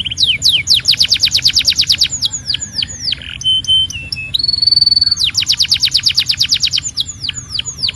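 Canary singing: fast trills of rapidly repeated down-swept notes, about ten a second, with a few slower falling whistles after each trill. Two held steady whistles sit in the middle, between the two trills.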